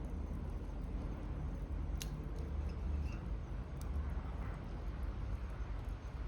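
Wood fire burning in a fire pit, a steady low rumble with a couple of sharp crackles, about two seconds in and again near four seconds.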